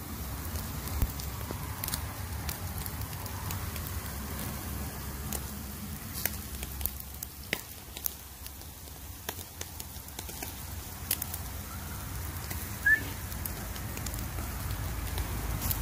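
Charcoal barbecue fire crackling, with scattered sharp pops over a steady low rumble.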